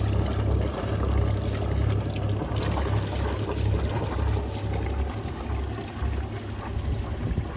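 Freshly rebuilt Yanmar 3GM30F three-cylinder marine diesel running steadily with a low, even throb, sounding healthy.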